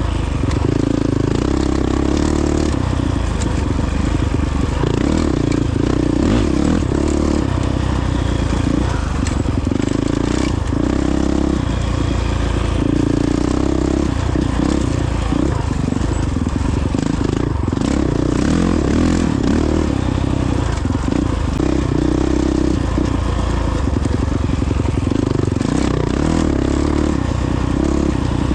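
Honda CRF450X single-cylinder four-stroke dirt bike engine running under way, its pitch shifting a little with the throttle, over a constant rush of wind and tyre noise.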